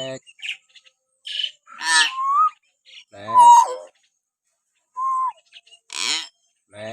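Hill myna calling: a run of short, separate calls with pauses between them. Clear whistles are mixed with harsher, buzzier squawks.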